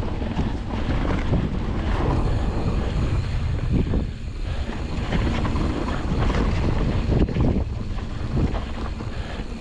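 Wind buffeting an action camera's microphone on a mountain bike riding fast downhill, over the steady rumble of tyres on rough dirt trail, with frequent knocks and rattles from the bike.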